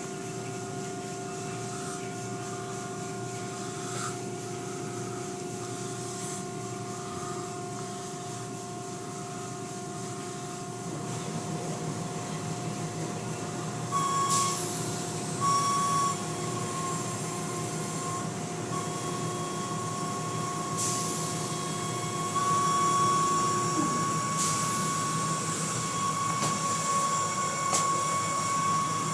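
Automatic car wash machinery running: a steady mechanical drone with several whining motor tones, and bursts of high hiss in the second half as the equipment works.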